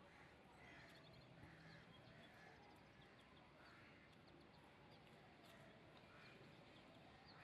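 Near silence: faint background ambience with birds calling, a repeated harsh call every second or so and small high chirps.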